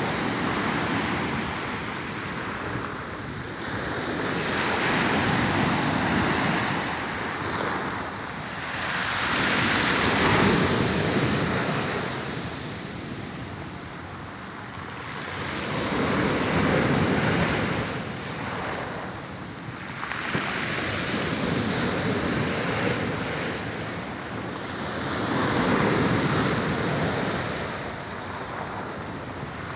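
Small Black Sea waves breaking and washing up the shore, rising and falling in a slow rhythm about every five or six seconds.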